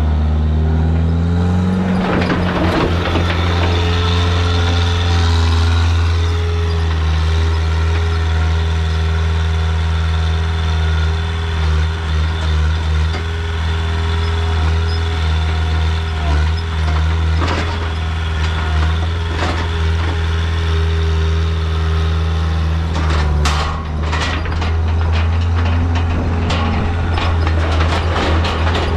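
Skid steer engine running steadily under load. It speeds up about two seconds in, and a few sharp knocks sound near the end.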